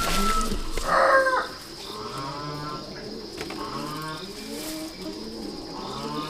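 Farmyard birds calling: a loud chicken call about a second in, then repeated low cooing phrases from doves, with fainter chicken calls between them.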